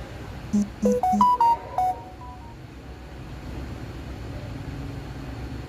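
A short electronic jingle: a quick run of clean beeps stepping through different pitches, lasting about a second and a half, over a steady low hum.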